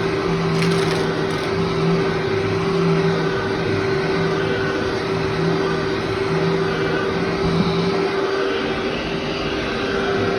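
Vacuum cleaner running steadily: a constant rushing noise with a steady hum, and a lower tone that comes and goes until about eight seconds in.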